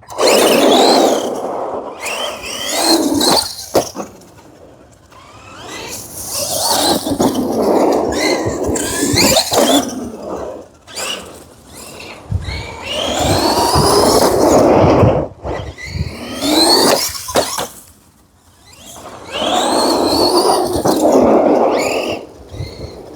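Redcat Volcano EPX RC truck's stock brushed 540 motor whining through about four hard acceleration bursts on 3S, the pitch climbing steeply in each, with lulls between them.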